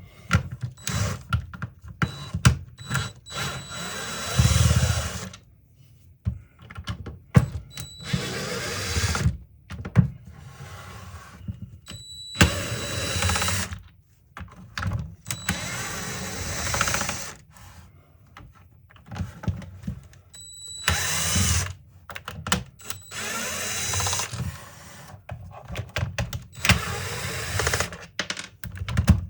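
Cordless drill/driver running in repeated short bursts of a second or two each, with a steady high whine, as it backs screws out of a tool housing.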